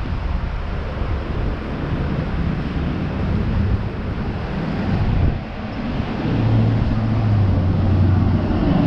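Street traffic, with a steady low engine hum from a vehicle close by coming up about six seconds in.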